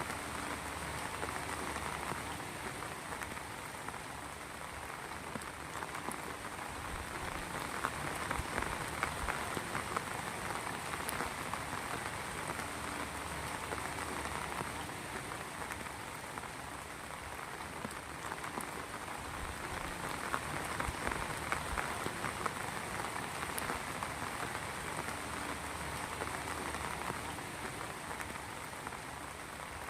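Steady heavy rain, a dense patter of drops hitting a surface.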